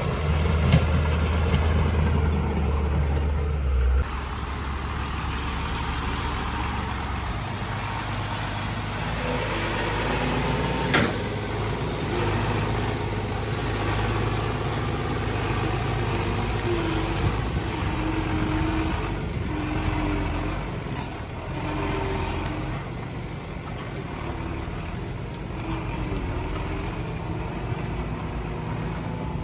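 Heavy diesel earthmoving machinery running steadily, with a deep low hum that is strongest for the first four seconds and then drops back. There is a single sharp knock about eleven seconds in.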